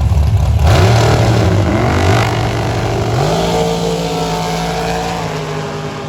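A drag car launching down the strip: its engine rumbles, then about a second in it revs hard and pulls away, its pitch climbing and dropping back at each of two or three gear shifts, then holding steady as the sound fades into the distance.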